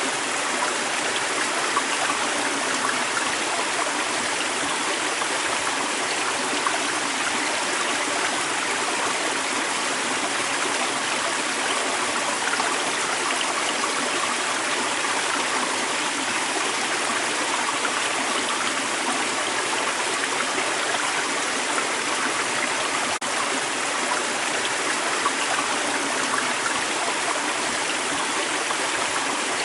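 Creek water running steadily over rocks, a continuous rushing and babbling flow, with one brief click about 23 seconds in.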